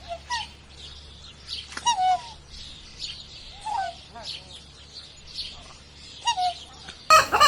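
A swan calling: about half a dozen short calls that fall in pitch, with small birds chirping in the background. Near the end a different recording of a hen clucking cuts in abruptly.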